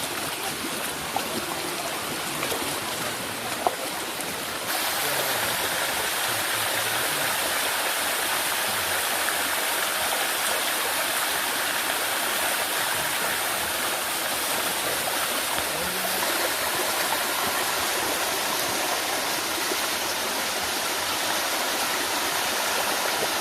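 Water rushing and cascading down a limestone waterfall, a steady noise that gets louder and brighter about five seconds in. A single sharp click a little before that.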